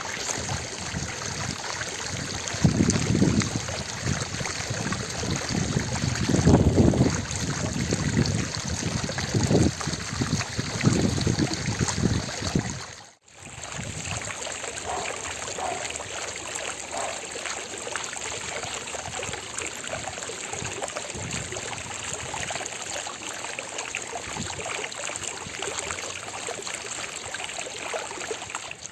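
Fountain water falling and splashing in a continuous rushing hiss, with a few louder low surges in the first half. There is a brief dropout about halfway through, after which the splashing runs on more evenly.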